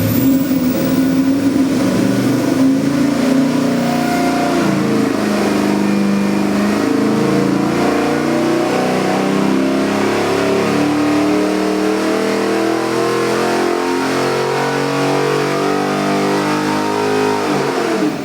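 Custom 441 cubic inch LS V8 crate engine with Holley EFI running and being revved, its pitch shifting up and down, then falling back toward idle near the end.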